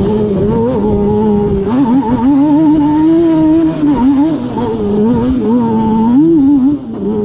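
Yamaha Banshee 350's twin-cylinder two-stroke engine, bored out with a Cheetah 426 big-bore kit, revving hard under riding, its pitch rising and falling repeatedly with the throttle and dipping briefly near the end.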